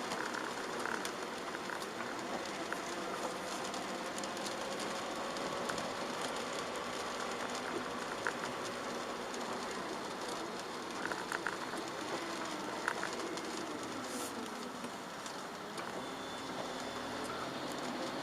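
A Chevrolet Aveo's 1.4 petrol engine and its tyres on a wet road, heard from inside the car while driving, the engine note slowly rising and falling. Scattered light ticks of rain on the car come through the steady road noise.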